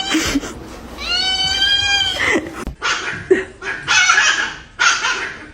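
A domestic cat giving one long meow about a second in, dropping in pitch at the end. Several short bursts of noise follow.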